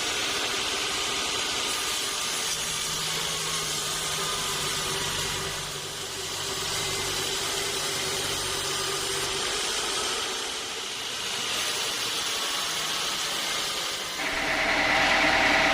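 Sawmill saw machinery running steadily, with a couple of brief dips, then growing louder with a higher-pitched tone about fourteen seconds in.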